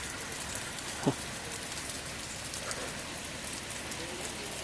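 Sleet pellets falling and ticking on surfaces, a steady patter of many tiny hits. About a second in, one short louder sound drops quickly in pitch.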